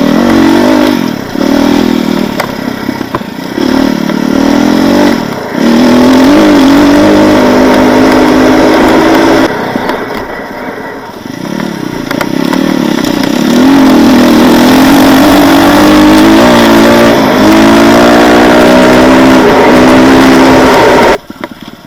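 Off-road motorcycle engine, loud, revving hard and unevenly as the throttle is worked, its pitch repeatedly rising and falling. It eases off for a few seconds about ten seconds in, then pulls hard again.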